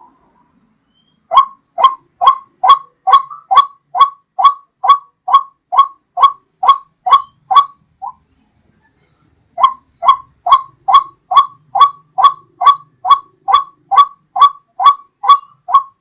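White-breasted waterhen (ruak-ruak) lure call: a loud run of short, identical notes at about two a second. It breaks off about eight seconds in and starts again after a pause of about a second and a half.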